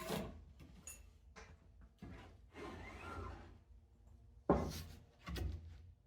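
A few scattered knocks and clunks, the loudest about four and a half seconds in and another just under a second later, with no motor running.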